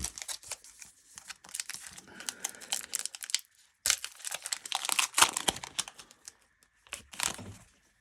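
Trading-card pack wrappers and cards crinkling and rustling as they are handled and tipped out, in three bursts: a long one, a second after a short break, and a brief one near the end.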